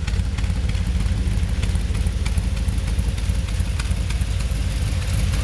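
The 1946 Woody station wagon's engine idling steadily, a low, even rumble.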